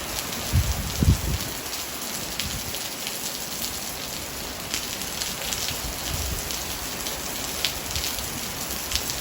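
Steady heavy rain falling, a continuous hiss with many individual drops tapping. Two brief low thumps stand out about a second in.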